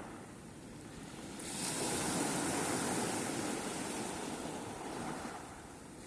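Sea waves breaking on the shore: a wave swells up about a second and a half in, then slowly washes back and fades.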